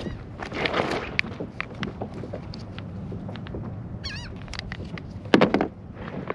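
Knocks and rustles of a flopping speckled trout being stowed aboard a kayak, with a sudden heavy thump about five and a half seconds in. A short wavering seabird call is heard about four seconds in.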